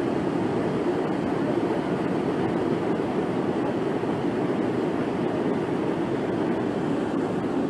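Floodwater rushing in a steady, unbroken torrent, from a flash flood after a thunderstorm.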